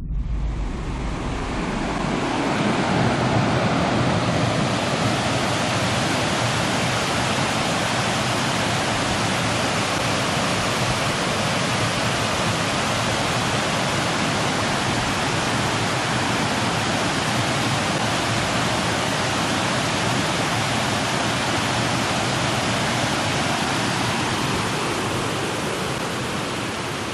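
Steady rush of running water, starting abruptly and easing slightly near the end.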